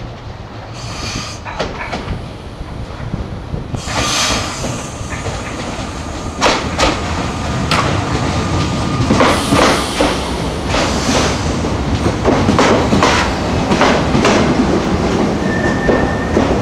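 SNCF TER double-deck electric train running past along the platform, growing louder as it comes alongside, with wheels clicking sharply over the rails and two brief high squeals from the wheels.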